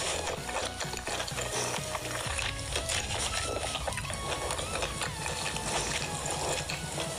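Close-up eating sounds: wet, clicky chewing and tearing of roast chicken meat, a dense crackle of mouth noises, with background music and a steady bass beat underneath.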